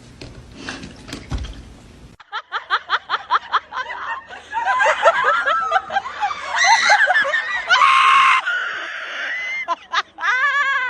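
Loud laughter in quick short bursts, building into overlapping shrieks with one long held high note, after a few seconds of faint hiss.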